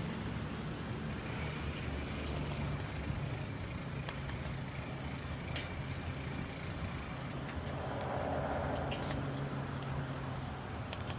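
Road traffic: the steady engine hum and tyre noise of passing cars, swelling briefly about eight seconds in, with a few faint clicks.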